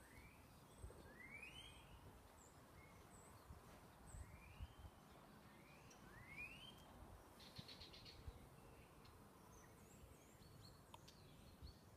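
Faint outdoor bird calls: a short rising whistled note repeated several times, with small high chirps in between, over a low background hum.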